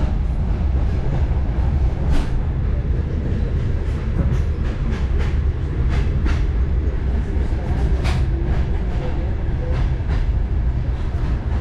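Moving railway passenger car, heard from inside: a steady low rumble with a few sharp clicks of the wheels over rail joints, the loudest about two seconds in and about eight seconds in.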